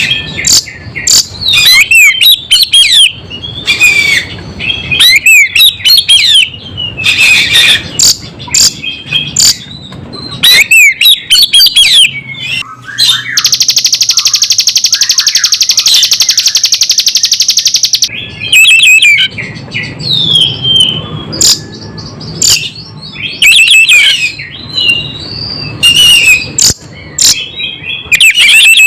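Loud recorded songbird song of ciblek gunung and kacer (Oriental magpie-robin): quick, varied, high whistled chirps and slurred phrases, broken by a long, even buzzing trill lasting about five seconds midway.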